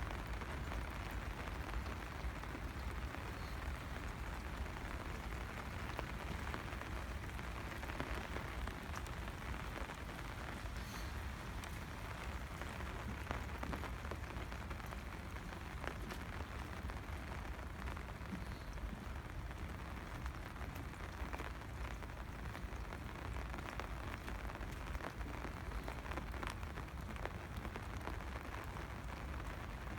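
Steady rain falling and pattering on surfaces, with many small scattered drop ticks.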